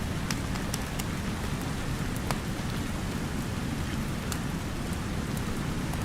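Steady rain with a deep, even hiss, and a handful of sharp crackles from a wood fire scattered through it.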